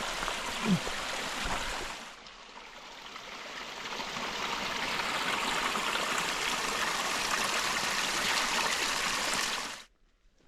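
Canyon creek water rushing steadily, dipping briefly about two seconds in and cutting off abruptly near the end.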